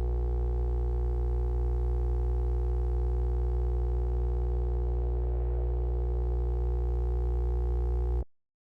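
A steady electronic hum with many overtones, holding one pitch and cutting off suddenly near the end.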